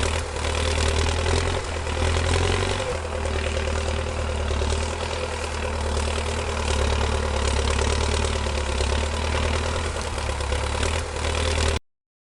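Tractor engine sound idling steadily, cutting off abruptly near the end.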